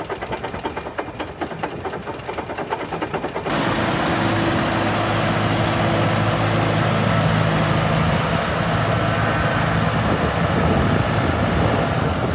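Tractor engine running with a quick, even pulsing beat. About three and a half seconds in the sound jumps suddenly louder and rougher, with a steady low engine hum under a wide noise.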